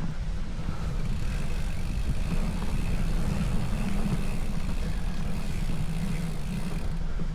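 Wind buffeting the microphone with a low rumble, while a motor vehicle passes, its road and engine noise rising about a second in and dying away near the end.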